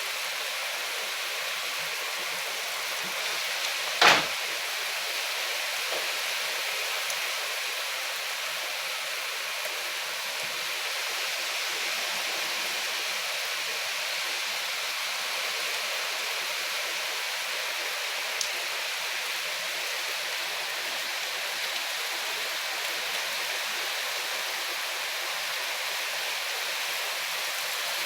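Steady rain falling, an even hiss, with one sharp knock about four seconds in.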